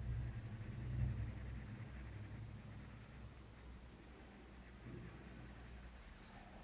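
Graphite pencil shading on paper: faint scratchy strokes, a little louder about a second in and then fading.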